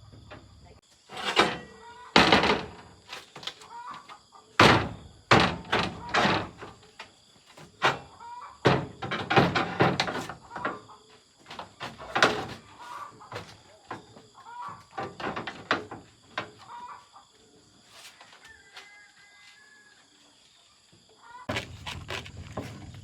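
An irregular series of loud knocks and thuds, a dozen or more sharp strikes spread unevenly, with the heaviest in the first half and quieter tapping later.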